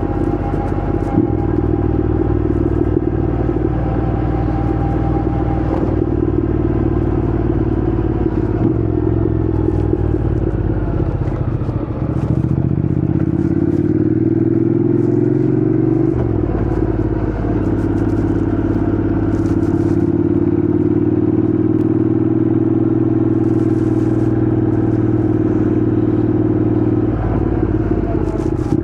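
Honda NC750X motorcycle's parallel-twin engine running steadily. Its pitch climbs for a few seconds near the middle, then changes abruptly about halfway through and again near the end.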